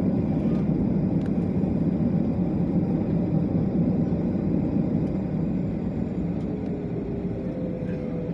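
Steady low rumble of a jet airliner's engines and airframe heard from inside the passenger cabin, easing slightly in the last few seconds.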